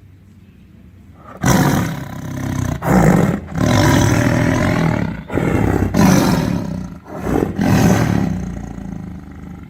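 Tiger roaring: a string of loud, rough roars that starts about a second and a half in, with short breaks between roars, dying down near the end.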